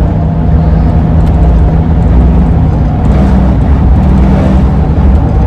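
Driving noise inside the cabin of a 2001 Ford E-350 camper van under way: a loud, steady low rumble of engine, tyres and wind, with a steady low hum that shifts slightly about three seconds in.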